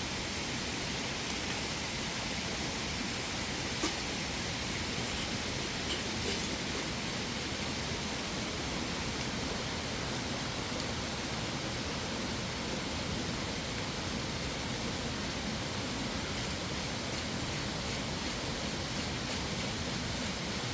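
Steady rushing of flowing water, an even hiss with a few faint clicks.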